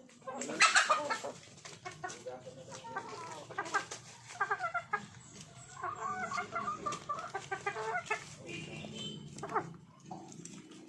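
Chickens clucking, a rapid run of short calls, with a loud burst about half a second in.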